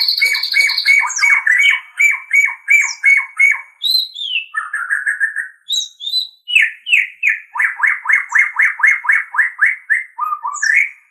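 White-rumped shama (murai batu) singing: fast runs of repeated chirping notes, about four or five a second, broken by a few slurred descending whistles about four seconds in, and ending abruptly.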